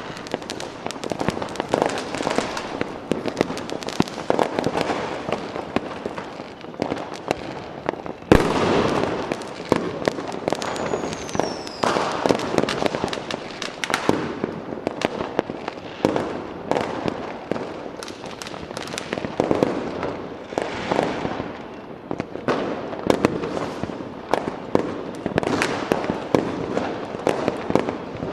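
Fireworks going off: continuous crackling and popping with many sharp bangs, one especially loud bang about eight seconds in, and a short falling whistle soon after.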